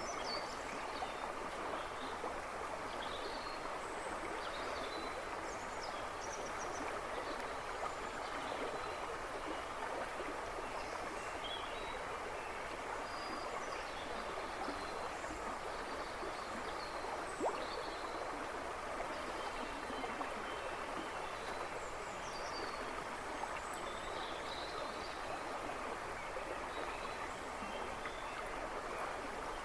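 A river babbling and rushing steadily, with birds chirping faintly in the woods behind it. One brief sharp tick just past halfway.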